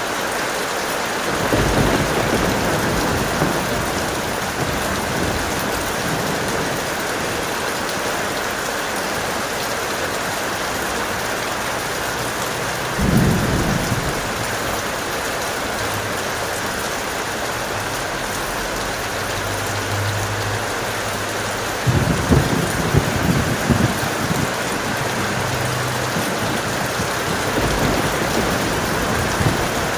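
Steady heavy rain with thunder rumbling three times: about a second and a half in, again around thirteen seconds in, and loudest and sharpest about twenty-two seconds in.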